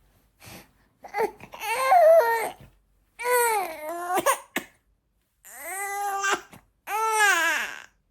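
A five-month-old baby fussing: four drawn-out, high-pitched cries, each rising and falling in pitch, with short pauses between them.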